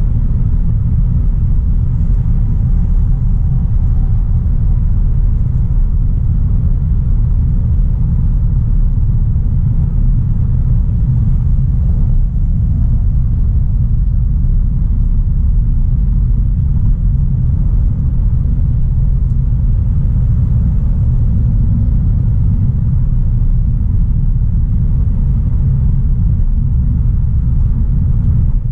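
2016 Audi A3 Sportback 1.4 TFSI driving at a steady pace: an even low rumble of engine and road noise with no change in pitch or level.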